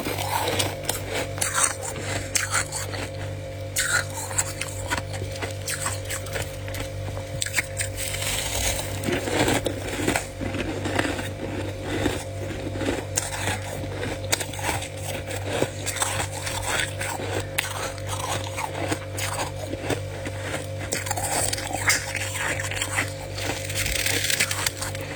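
Frost being eaten by hand: a dense run of short, crisp crunches, chewing and scraping. A steady low hum runs underneath.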